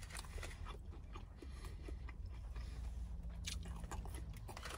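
A person chewing a chicken nugget with sauce: faint wet mouth sounds with small scattered clicks over a low steady hum.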